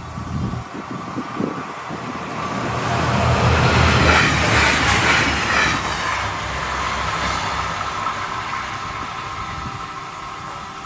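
A DSB IC3 (Flexliner) diesel multiple unit passing at line speed, about 140 km/h. Its rushing noise swells to a peak about four seconds in, then slowly fades as it moves away.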